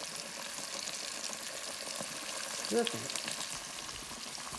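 Breaded chicken wings frying in a skillet of hot grease: a steady sizzle with fine crackling pops.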